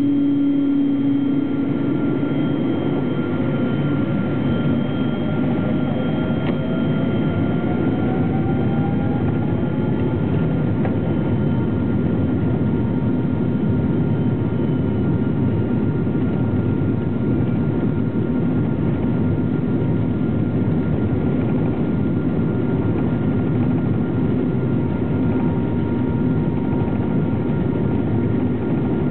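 Boeing 777-200ER's twin jet engines heard from inside the cabin as a loud, steady roar. A whine rises in pitch over the first dozen seconds and then holds steady, as the engines spool up for takeoff.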